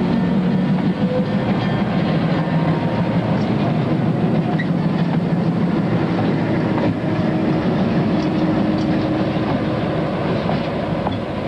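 Two diesel locomotives running light, with no cars, passing close by: a steady, loud engine drone mixed with wheel and rail noise.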